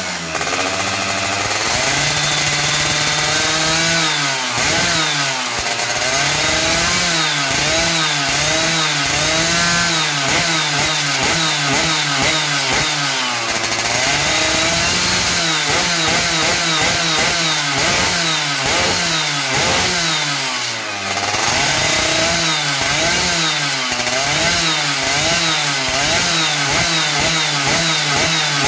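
Yamaha F1ZR's single-cylinder two-stroke engine revving hard through a tuned racing expansion-chamber exhaust, the throttle blipped up and down again and again, held high briefly a few seconds in and dropping off for a moment about 21 seconds in.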